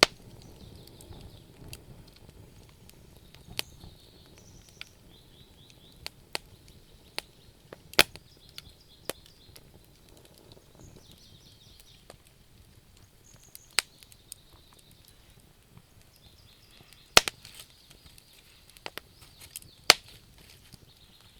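Wood fire crackling, with sharp pops at irregular intervals; a few louder pops come in the second half.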